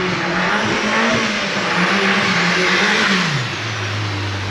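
Audi TT 1.8-litre turbocharged four-cylinder engine in a MK2 Volkswagen Golf pulling under throttle, its note held high with a loud rushing noise over it. About three seconds in it eases off, and the pitch falls to a steady lower drone.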